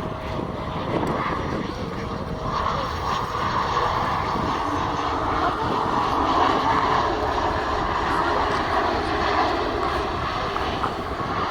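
Airliner engines on a passing aircraft, a steady rushing noise that grows a little louder after about two seconds and then holds.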